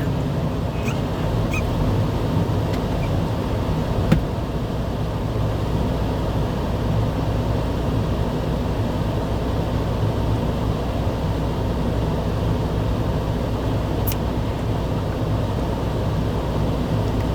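Steady running noise of a car on the road, a continuous low rumble. A short knock about four seconds in and a sharp tick near fourteen seconds stand out briefly.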